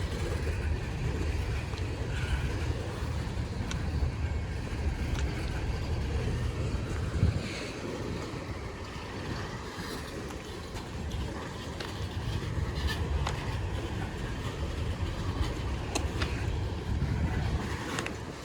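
Freight train cars rolling slowly past: a steady low rumble with scattered light clicks, and a sharper knock about seven seconds in.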